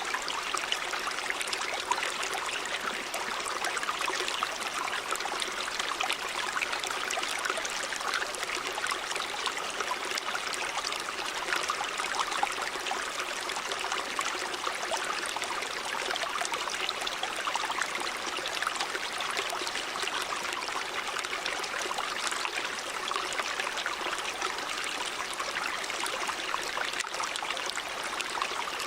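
Stream water running over rocks: a steady, even rush with fine splashing and trickling detail.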